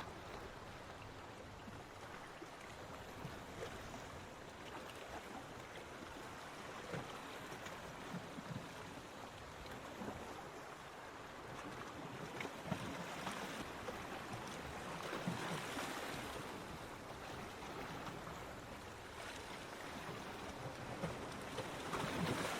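Waves washing onto a beach, a steady wash of surf with swells rising about two-thirds of the way through and again at the end, and small fizzing crackles as water runs over sand.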